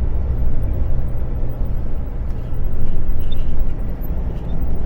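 Heavy truck's diesel engine running with road noise, heard from inside the cab: a steady low rumble while the truck drives down a winding mountain road.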